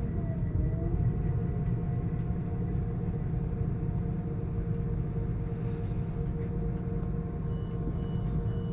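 Train running, a steady low rumble with a constant hum over it; near the end a short high beep sounds three times.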